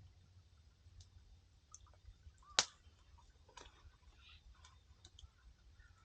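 Wood campfire crackling: scattered small ticks and pops, with one sharp, loud snap about two and a half seconds in.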